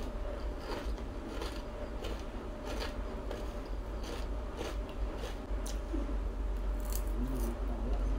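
Chewing a mouthful of crispy fried rice crackers, with irregular sharp crunches about once or twice a second.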